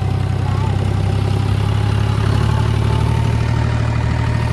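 A vehicle engine running steadily with a strong low drone, and a faint whine that rises slightly in pitch about two seconds in.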